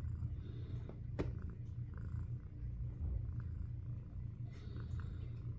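Domestic cat purring steadily, with a single sharp click about a second in.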